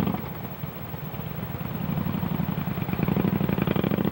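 A motor vehicle's engine running close by with a rapid, even pulse, easing off about half a second in and building up again from about two seconds.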